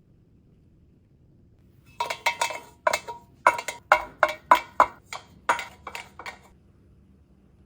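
A quick, uneven run of about a dozen sharp, hollow taps and clacks, starting about two seconds in and stopping after about four seconds: kitchen utensils knocking against cookware.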